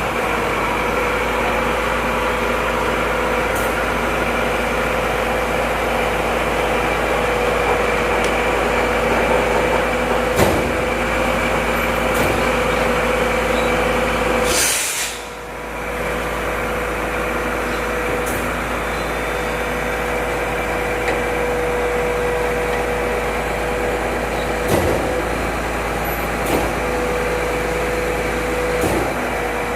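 Volvo FM 370 truck running steadily, a constant engine drone with a steady whine through it. About halfway there is a short burst of air hiss and a brief dip in level, and a few light clicks follow later.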